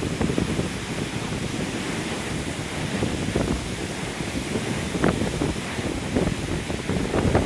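Lake Michigan storm surf rolling and breaking ashore in a strong wind, with wind buffeting the microphone. Gusts hit hardest about five seconds in and again near the end.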